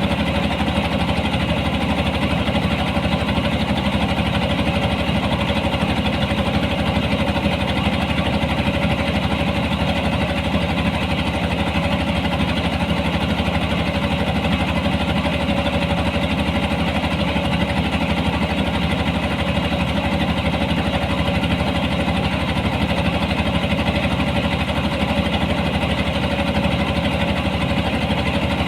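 Engine of a harvesting machine running steadily at constant speed, a continuous mechanical drone with a fixed pitch.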